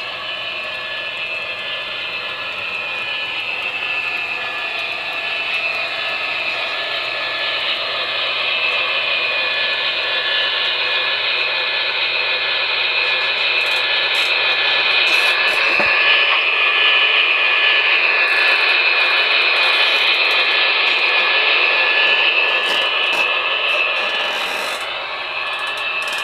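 Model Union Pacific gas-turbine locomotive running with its turbine sound playing: a steady high whine that grows louder through the first half and drops near the end, with light clicking in the second half.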